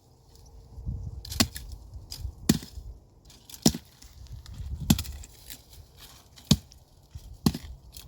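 Six sharp blows at a steady pace of about one a second, with a low rumbling noise between them.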